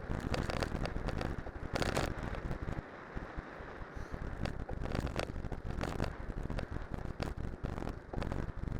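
Cyclocross bike on studded tyres rolling downhill over snow and ice: a steady rumbling rush of tyre and wind noise, broken by many irregular sharp clicks and crackles from the tyres and the rattling bike.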